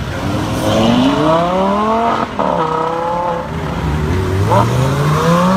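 Supercar engine accelerating, its pitch rising steeply, with a brief cut about two seconds in like a gear change, then climbing again near the end.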